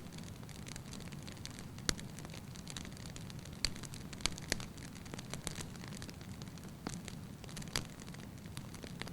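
Wood fire burning in a fireplace: a steady low rumble with irregular sharp pops and crackles from the logs, the loudest about two seconds in and near the middle.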